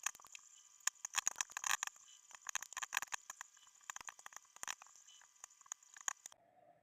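Microwave popcorn popping in a running microwave: irregular sharp pops, several a second at first, then thinning out as the batch nears done. Near the end the microwave's hum stops suddenly.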